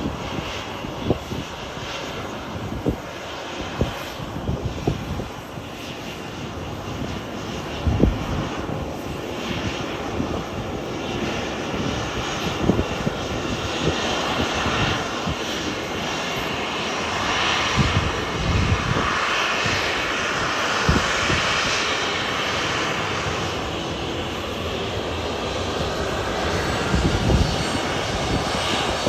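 Jet airliner engines, a steady rush that builds and is loudest in the middle, then eases a little, with irregular low thumps throughout.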